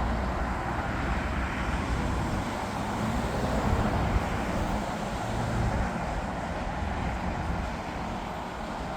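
Steady low rumble of a jet airliner's engines, swelling a little in the middle and easing near the end.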